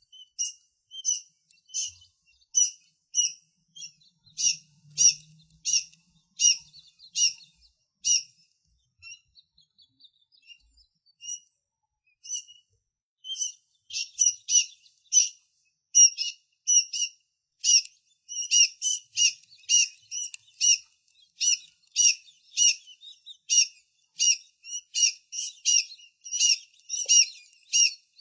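Tiny birds chirping in short, repeated, high-pitched chirps, about two a second. The calls thin out for a few seconds near the middle, then come faster and overlapping from about halfway through, as if several birds are calling at once.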